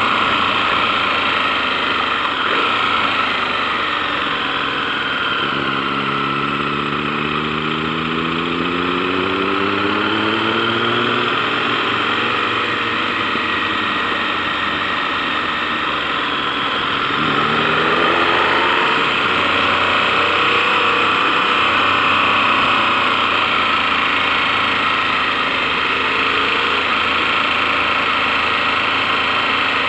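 KTM 1090 Adventure's V-twin engine pulling under way, its pitch rising for several seconds, dropping sharply past the halfway mark and climbing again, under a steady rushing wind noise.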